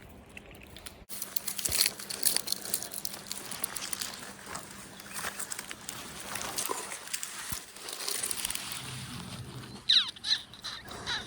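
Irregular crackling and rustling, like something moving through or handling dry material, with a short call that falls in pitch near the end.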